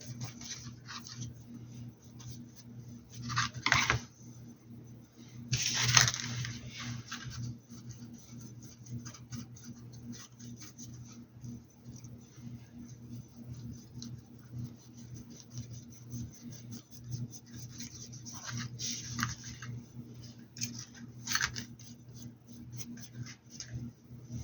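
Close handwork of painting: a paintbrush making a long run of small quick taps and strokes, with four louder rustling scrapes, over a steady low electrical hum.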